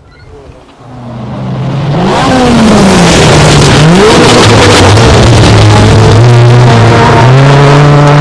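Rally car engine coming closer at speed, swelling over the first two seconds to very loud. Its pitch dips and rises several times as the driver works the throttle and gears, then steps up near the end.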